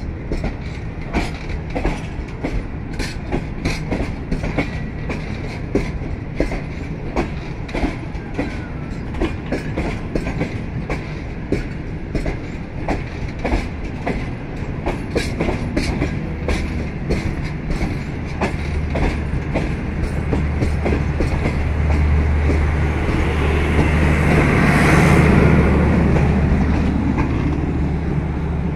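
Passenger train coaches rolling past, their wheels clacking in a steady rhythm over the rail joints. A low hum and a louder rumble build up a few seconds before the end as the rear of the train goes by.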